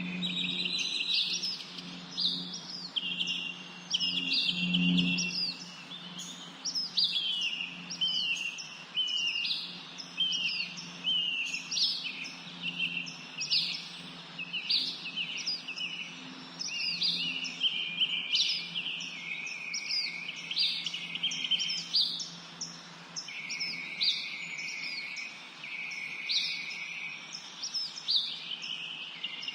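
Several songbirds chirping and singing continuously, their quick high calls overlapping, over a faint steady low hum.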